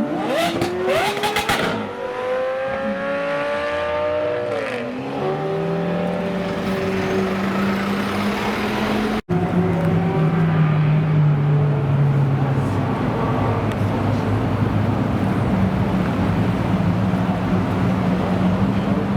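Supercar engine accelerating, its pitch climbing, with a rapid series of sharp exhaust cracks about a second in. The revs then drop and it settles into a steady low run, which carries on after a brief cut about halfway through.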